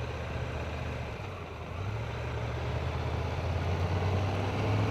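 Triumph motorcycle engine running steadily while riding, a low drone that grows a little louder about two seconds in.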